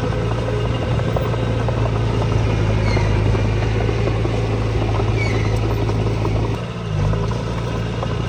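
Heavy-machinery diesel engine running steadily, with a short dip in its sound about six and a half seconds in.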